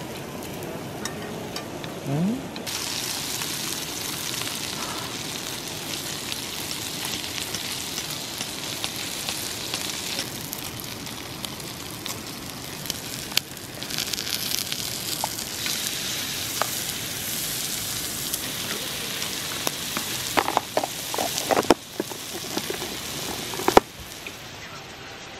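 Makchang (intestines) sizzling and frying on a hot griddle pan. The sizzle steps up louder about two seconds in, and a few sharp clicks come near the end.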